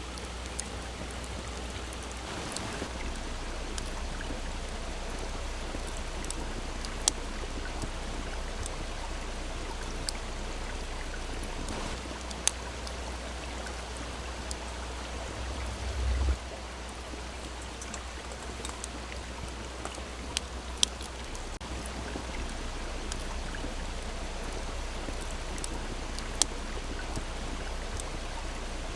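A small stream babbling steadily, with the occasional sharp crackle and pop of a wood campfire, about half a dozen in all. Around the middle, a low rumble swells for a second or two and stops abruptly.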